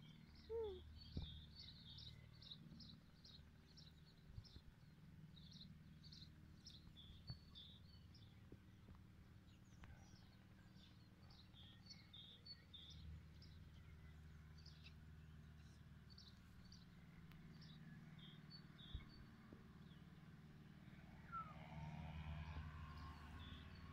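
Faint outdoor ambience: a small songbird chirping in quick runs of short high notes over a steady low rumble.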